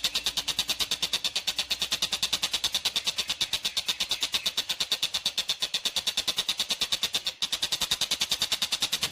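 Tengkek buto kingfisher giving a fast, even, high-pitched rattling call of about ten notes a second, the call likened to a train. It runs on without pause except for a brief break about seven seconds in.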